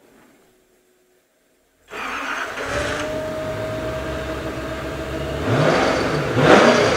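About two seconds of near silence, then the Koenigsegg CC8S's V8 comes in abruptly, loud. It runs steadily, then revs rise and fall in quick sweeps near the end.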